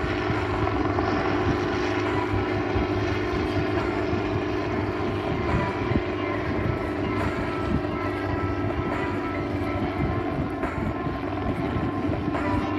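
Piston aircraft engine and propeller droning steadily in flight.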